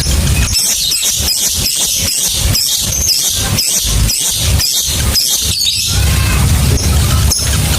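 Lovebird chattering: a fast run of repeated high, shrill chirp notes lasting about five seconds, then breaking off near the end, with a steady low hum underneath before and after the run.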